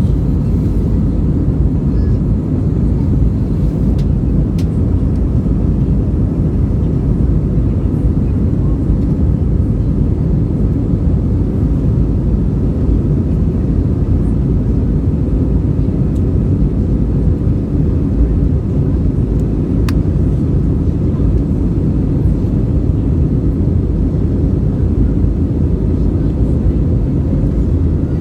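Steady, loud engine and airflow noise inside the cabin of an Airbus A320 in flight, a constant deep rumble with a faint steady hum on top.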